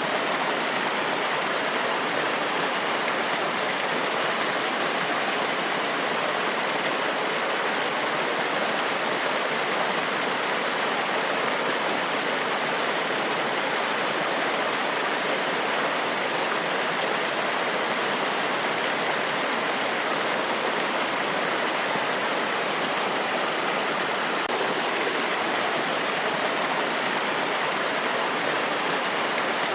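Small forest waterfall cascading in a steady, even rush of falling water.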